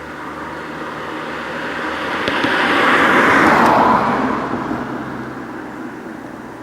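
Subaru Impreza's flat-four engine and exhaust as the car drives past, the sound building to a peak about three and a half seconds in and then fading away.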